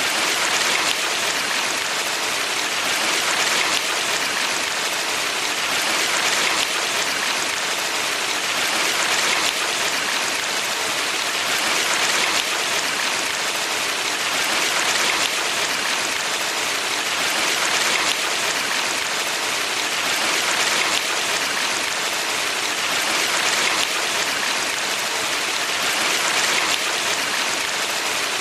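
Valley stream water flowing and splashing steadily, a dense hiss that swells gently about every three seconds.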